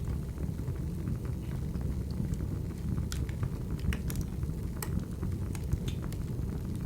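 Firewood burning: a steady low rumble with scattered sharp crackles and pops, a few louder snaps between about three and five seconds in.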